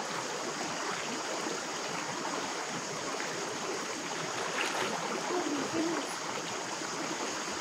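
Creek water running steadily, an even rushing flow.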